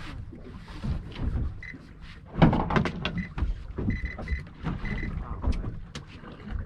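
Irregular knocks and thumps of gear being handled aboard a small fishing boat, the loudest about two and a half seconds in, over a low rumble.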